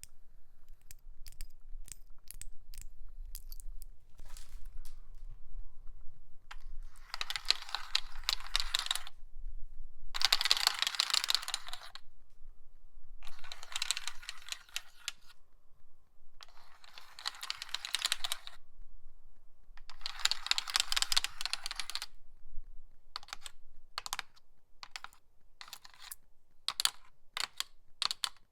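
A nail worn on a fingertip tapping on a seedling box, then scratched across it in five strokes of about two seconds each, with quick taps again near the end.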